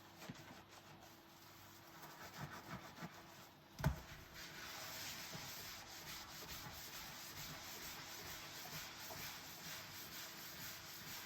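Dishes being washed by hand: a few light clinks, a sharp knock of dishware about four seconds in, then steady scrubbing of a dish with a sponge.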